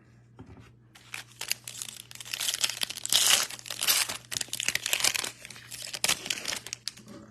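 Plastic-foil wrapper of a trading-card pack being torn open and crinkled by hand: a dense crackle that starts about a second in, is loudest in the middle and tails off near the end.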